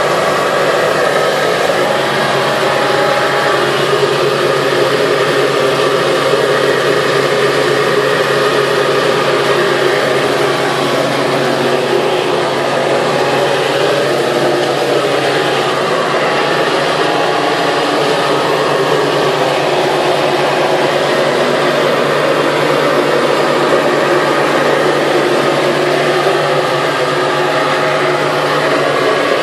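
Vintage Hoover Model 300 upright vacuum cleaner running steadily: a loud, even whir of motor and rushing air with a low steady hum.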